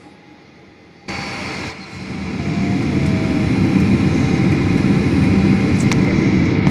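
Airliner jet engines heard from inside the cabin, a steady hum that comes in suddenly about a second in, swells over the next couple of seconds and then holds loud and even while the aircraft taxis before take-off.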